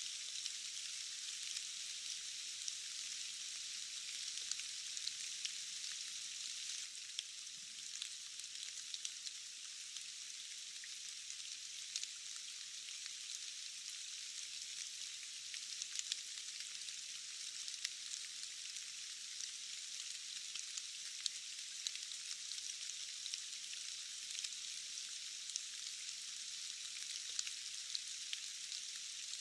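Steady rain falling, a thin high hiss with many small drop ticks scattered through it.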